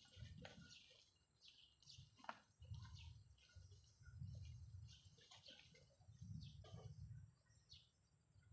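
Faint, scattered bird chirps, short and irregular, over a low rumble that swells and fades.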